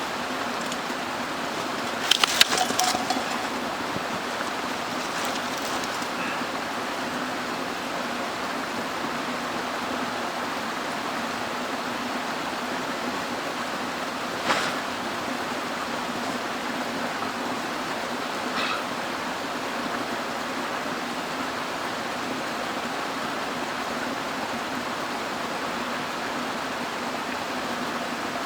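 Mountain stream rushing steadily. Over it there is a short cluster of clicks and knocks about two seconds in, and single knocks about halfway through and again a little later.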